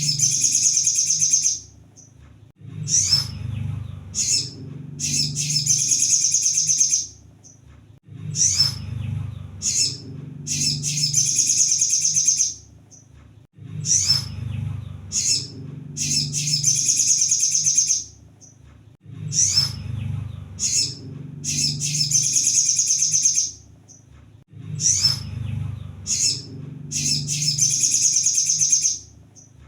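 Sunbird (kolibri sogon) song played as a looped training recording. About every five and a half seconds the same phrase repeats: a few short sharp high calls, then a dense, high chattering trill lasting several seconds, over a low background hum.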